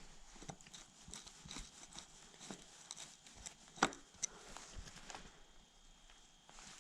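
Faint, scattered clicks and light taps of a screwdriver and fingers working at the small screws and cap of a dirt bike's hydraulic clutch master cylinder, with a couple of sharper clicks near the middle.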